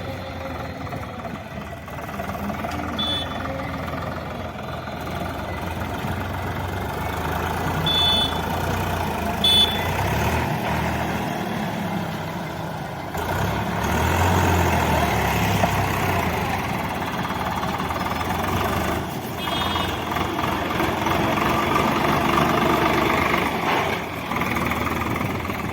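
Swaraj 744 FE tractor's three-cylinder diesel engine running steadily, growing louder about halfway through, with a few short high-pitched beeps over it.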